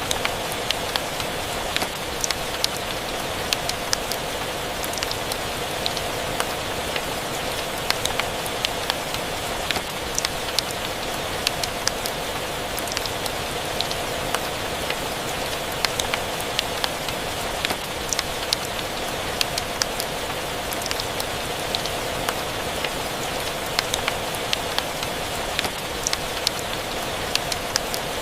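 Steady rain with a fireplace crackling: an even hiss with frequent sharp pops and ticks scattered irregularly through it.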